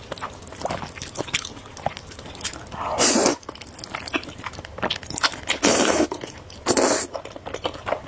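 Close-miked eating of spicy noodles: wet chewing and small mouth clicks, with a loud noodle slurp about three seconds in and two more near six and seven seconds.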